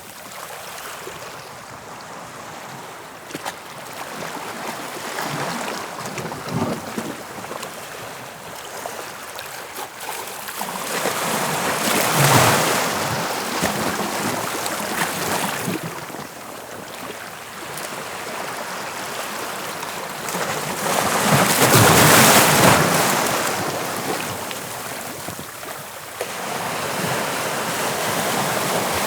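Sea waves breaking on the shore, a steady wash of surf with two louder waves crashing, about 12 seconds and 22 seconds in. Wind buffets the microphone.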